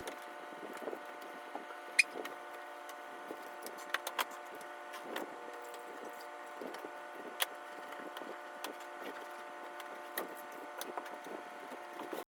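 Scattered light clicks and knocks from handling the refrigerator's shelves and containers while cleaning it, over a steady hum.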